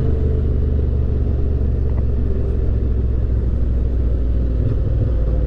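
Yamaha Ténéré 700's parallel-twin engine running steadily at low revs, a continuous low drone.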